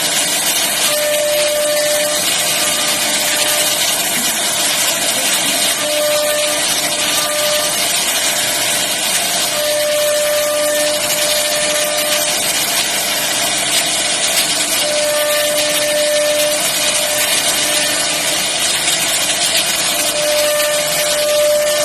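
CNC router cutting a 3D bed design into wood: a steady, loud hiss of the spindle and bit at work, with a humming tone that comes and goes every few seconds as the machine moves.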